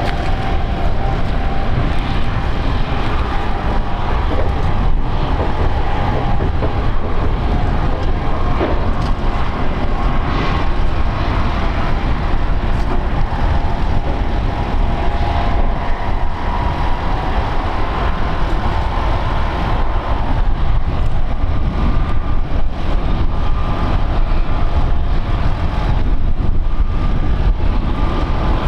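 Airbus ACJ319neo business jet's turbofan engines running steadily, a loud rumble with a whine that drifts slightly in pitch.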